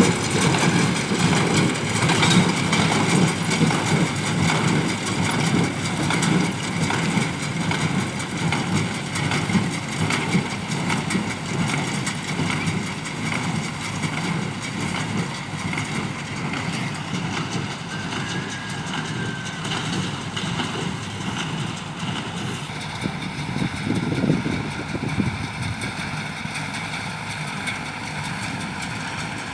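Ford 5000 tractor running a New Holland BC5060 small square baler: steady engine noise with a dense mechanical clatter from the baler, growing gradually fainter.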